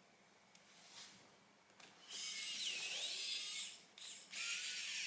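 Small electric precision screwdriver whirring as it drives a board screw: one run of about a second and a half, its pitch dipping and coming back up, then a shorter run near the end.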